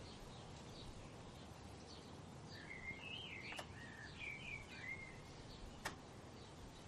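Songbird singing: a warbling phrase of quick up-and-down sweeping notes in the middle, with faint short high chirps from other birds throughout, over a steady low background hiss. Two sharp clicks, at the middle and near the end.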